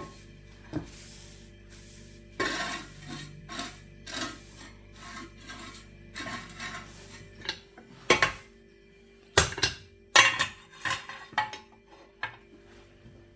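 Dishes and cutlery being handled, in a run of irregular clinks and clattering knocks, the loudest about eight and ten seconds in.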